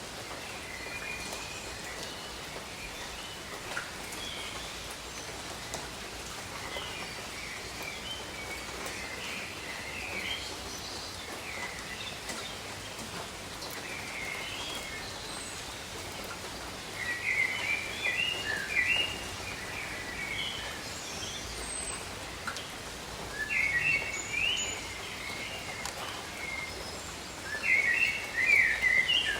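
Steady rain hiss with birds chirping over it; the bird calls come in louder bursts of quick chirps several times in the second half.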